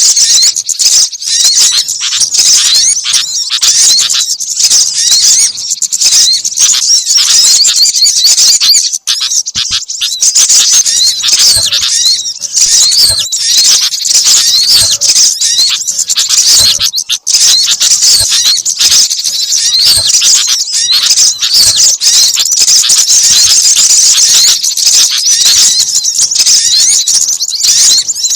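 Bird-lure recording of many small songbirds calling at once: dense, high-pitched chirping and twittering with no pause.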